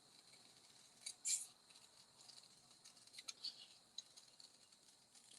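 Small craft scissors snipping around a stamped image in cardstock: a few faint, short snips, the loudest about a second in.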